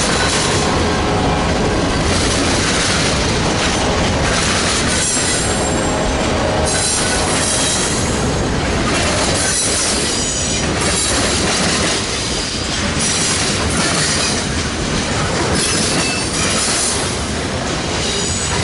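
Freight train rolling past close by, steel wheels running on the rails, with a high-pitched wheel squeal that comes and goes several times.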